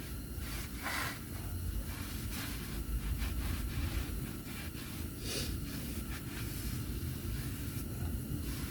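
Brake parts cleaner sprayed in short hissing bursts onto the face of a new brake rotor as it is cleaned, with a steady low rumble underneath.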